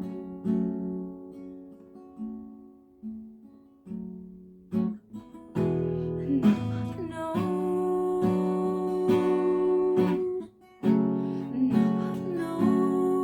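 Acoustic guitar playing an instrumental passage of a song: sparse chords that ring and fade at first, then fuller, sustained strumming from about halfway in, with a brief gap near the end.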